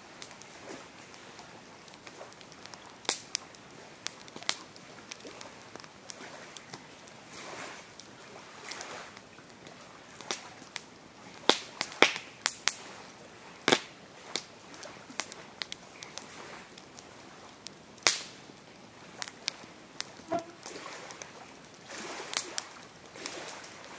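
Campfire crackling: irregular sharp pops and snaps of burning wood over a soft steady hiss, the loudest pops falling around the middle.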